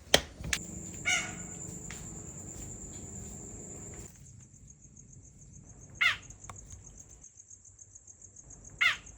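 Loud, short, sharp calls from a small hidden animal whose noise echoes and is hard to pinpoint: one about a second in, then two more about three seconds apart near the end. A steady high-pitched trill runs underneath, and a sharp click sounds right at the start.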